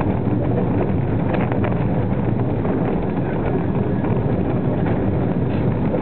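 Steady rumble of a slow-moving train, a brake van pushed by a Class 03 diesel shunter, running along a station platform, with wind buffeting the microphone.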